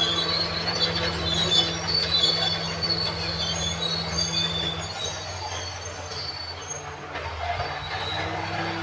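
Crawler bulldozer working: its diesel engine running steadily under intermittent high squeals from the steel track undercarriage. The engine note drops back after about five seconds and partly picks up again near the end.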